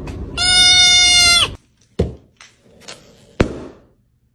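An animal gives a long, steady, high call that drops in pitch at its end. It is followed by two sharp knocks, the second about a second and a half after the first.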